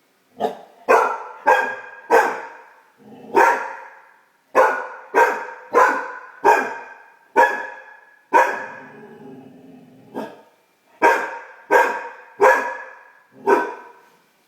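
Great Dane puppy barking over and over, about sixteen sharp pitched barks in quick runs with short pauses between them.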